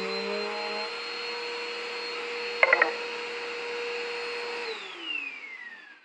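Vacuum cleaner running with a steady whine, then switched off near the end, its pitch falling as the motor winds down. A quick rattle of sharp clacks about two and a half seconds in.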